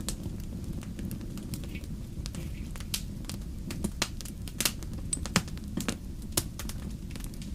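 Wood fire burning in a fireplace: a steady low rumble of the flames with irregular crackles and a few sharper pops.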